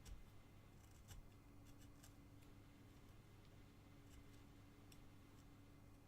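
Faint, short scrapes and snicks of a carving gouge cutting into basswood, a handful of strokes with the strongest near the start and about a second in, over a low steady hum.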